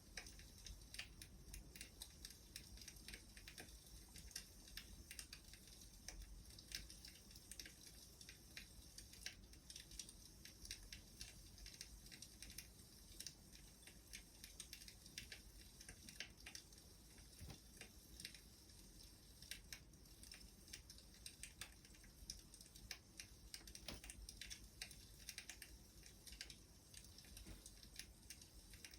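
Wood fire crackling faintly, with irregular small pops and snaps.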